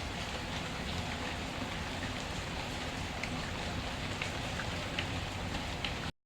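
Steady rain with scattered small ticks and pops through it. The sound cuts out completely for a moment near the end.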